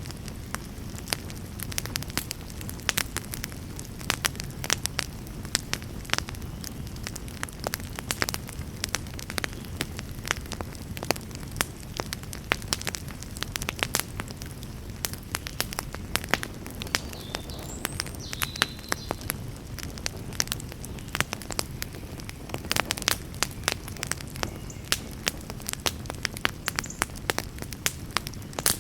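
Wood campfire burning with frequent irregular crackles and sharp pops over a steady low rush of flame.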